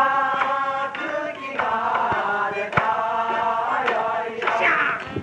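A group of men singing a slow song together in long held notes, with a few sharp taps in between.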